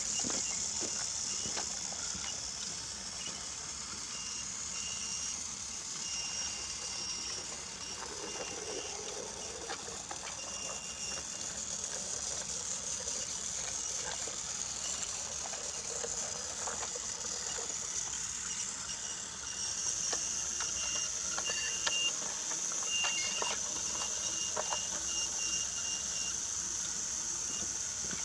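Battery-powered Brio toy train running on wooden track: a steady high motor whine, with a thin high tone coming and going and scattered light clicks.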